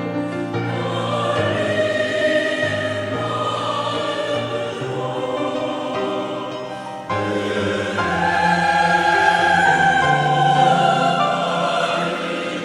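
Choir singing a slow choral song in sustained notes. About halfway through, a new, louder phrase begins with long held high notes, which ease off near the end.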